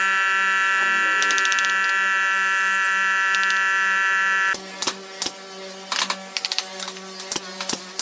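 A power tool's motor running with a steady high-pitched whine, cutting off suddenly about four and a half seconds in, followed by scattered sharp knocks and clicks.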